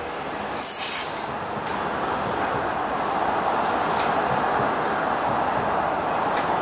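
China Railways 25T passenger coaches rolling past at speed without stopping: a steady rush of wheels on rail that grows slightly louder. About half a second in comes a brief high-pitched wheel squeal, the loudest moment, with fainter short squeals later.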